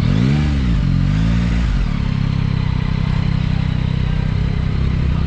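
Yamaha XSR900 motorcycle's inline three-cylinder engine heard from on board, revving up and back down twice in the first two seconds, then running steadily.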